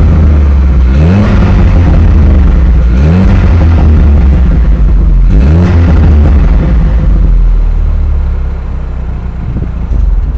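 BMW F30 328i's turbocharged N20 2.0-litre four-cylinder revved through a prototype Injen exhaust. Three throttle blips come about two seconds apart, each rising and dropping back. The engine then settles lower near the end.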